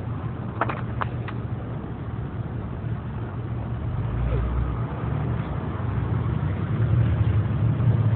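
Car engine running at idle, a steady low hum that grows gradually louder toward the end, with a few sharp clicks about a second in.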